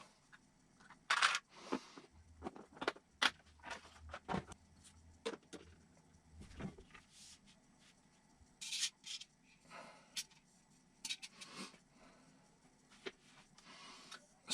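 Small parts being handled on a workbench: scattered light clicks, taps and a few brief rustles, at irregular intervals.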